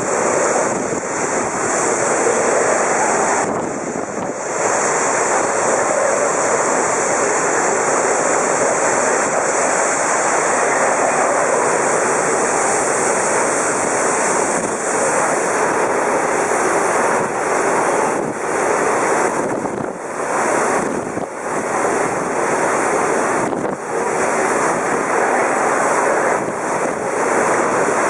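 Typhoon-force wind blowing hard, a loud continuous rushing roar that surges and briefly eases a few times, with wind buffeting the microphone.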